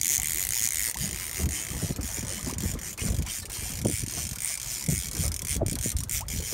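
Spinning or conventional fishing reel ratcheting and clicking while a hooked fish pulls on the bent rod, over a steady hiss, with a couple of sharp clicks near the end.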